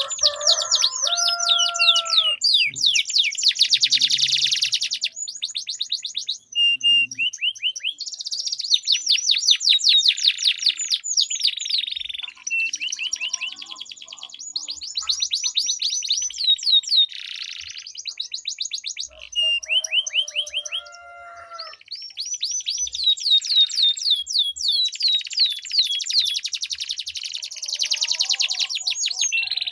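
Domestic canaries singing long, fast rolling trills (ngerol), several songs overlapping with only short breaks. A lower, steadier call sounds briefly near the start and again about two-thirds through.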